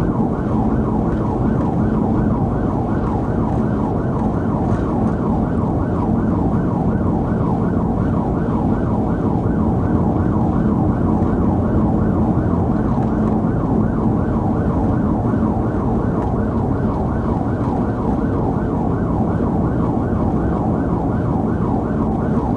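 Police car siren in fast yelp mode, its pitch sweeping up and down about three times a second without a break, over the steady road and engine rumble of the pursuing patrol car.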